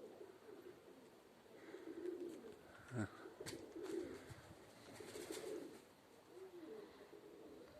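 Domestic pigeons cooing softly in several low, wavering phrases, with a brief knock about three seconds in.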